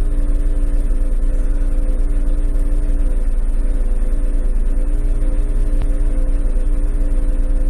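C8 Corvette Z06's V8 engine idling steadily, heard from inside the cabin.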